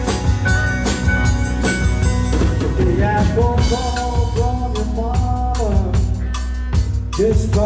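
Live country band playing a cover song, with a steady drum kit beat and bass. A lead vocal comes in about three seconds in.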